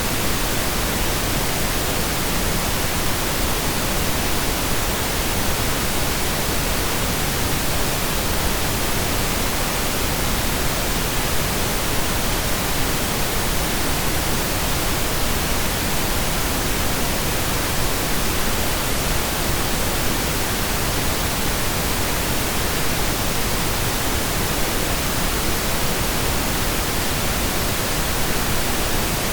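Steady synthesized pink noise: an even, unchanging hiss spread across the whole audible range, like steady rain or a waterfall.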